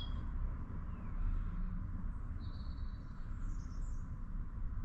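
A small bird chirping a couple of short, high calls in the background, over a low steady outdoor rumble.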